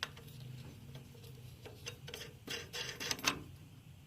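Nut being threaded and tightened onto the table saw's handwheel shaft: small metallic clicks and rattles, busiest about two and a half to three and a half seconds in.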